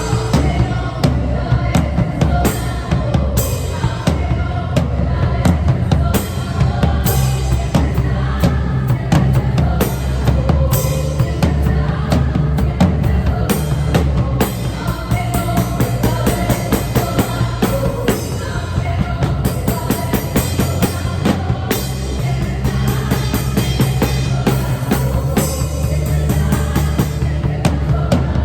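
Acoustic drum kit played live, with steady kick, snare and cymbal hits throughout. The kit is heard through a phone's microphone as room sound, with backing music underneath.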